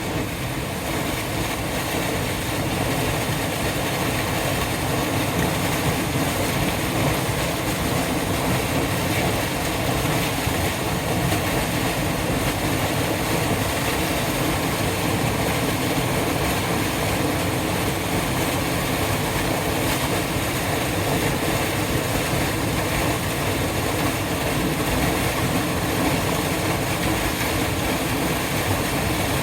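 Mountain river waterfall: water pouring and rushing over rocks in a steady, loud roar of white noise.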